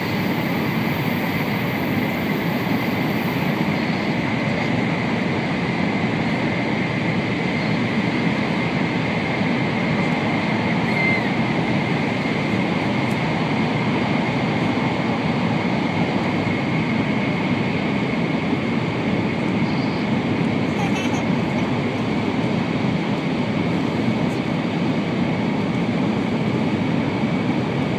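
Steady running noise of an N700-series Shinkansen heard inside the passenger cabin, with the train in a tunnel, plus a faint steady high whine.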